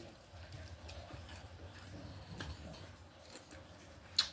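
A person eating a sweet and sour chicken drumstick: faint chewing and small wet mouth clicks, with one sharper click near the end.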